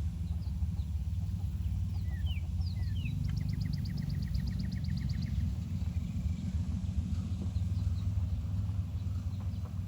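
A few short, falling high peeps, then a rapid bird trill of about ten notes a second lasting about two seconds, over a steady low hum.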